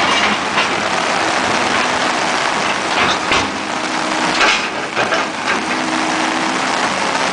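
Heavy rain pouring down in a downpour, a dense steady hiss with occasional louder splashes, with an engine running faintly underneath.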